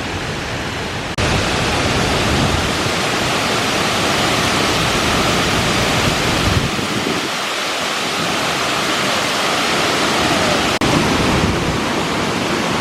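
Waterfall: a steady, loud rush of falling water that jumps louder about a second in.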